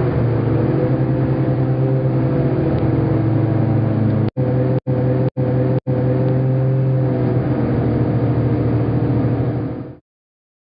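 Hovercraft engine and fans running with a steady drone. The sound breaks off in four brief silent gaps about four to six seconds in, then cuts off abruptly shortly before the end.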